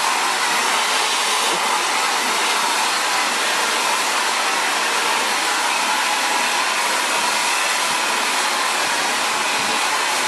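Xtava Allure ionic ceramic hair dryer running steadily, blowing hot air through curly hair, a constant rushing whoosh with a faint whine.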